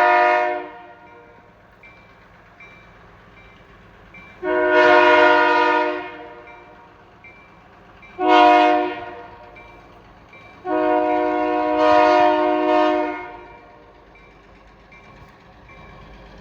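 Freight locomotive's air horn sounding the grade-crossing signal. A long blast ends just under a second in, followed by a long, a short and a final long blast, each one chord-like with many pitches stacked together.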